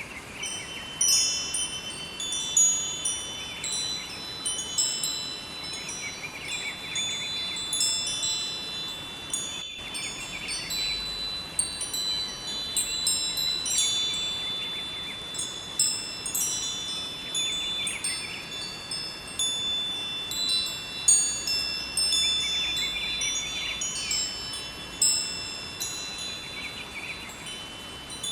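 Wind chimes ringing, struck irregularly so that many high tones overlap and hang on, over a steady rushing of river water. The sound cuts out for an instant about ten seconds in.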